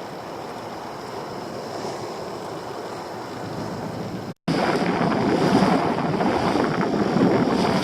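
Sea surf and swell washing, with wind buffeting the microphone. About four seconds in the sound cuts out briefly and comes back louder.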